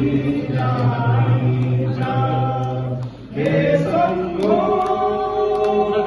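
A group of voices singing a devotional bhajan together in long held notes. The singing breaks off briefly a little after three seconds, then starts again.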